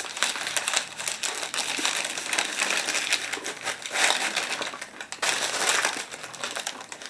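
Close-miked chewing of shawarma, with its paper wrapper crinkling in the hands, as a dense crackly run of small noises. It gets louder about four seconds in and again just after five seconds.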